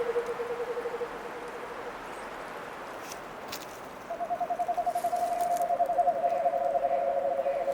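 Low, rapidly pulsed animal trills. One trill fades out about two seconds in. About four seconds in a slightly higher trill starts and carries on, soon overlapped by a lower one. A few faint ticks sound in between.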